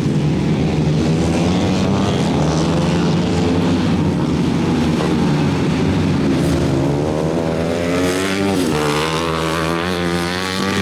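A small 125 cc engine running steadily at a constant speed. About eight seconds in, its revs dip briefly and pick up again.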